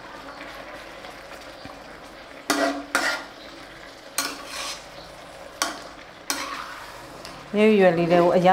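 Fish and leafy greens sizzling in a stainless steel pot while a metal spatula stirs them. The spatula scrapes and clinks against the pot about five times.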